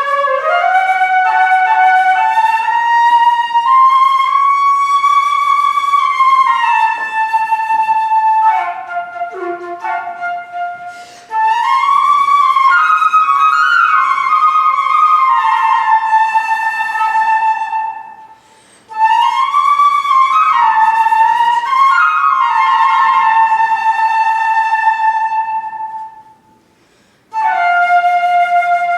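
Unaccompanied flute playing a Native American–inspired solo piece: long phrases with notes that bend and slide in pitch, broken by short pauses for breath about three times.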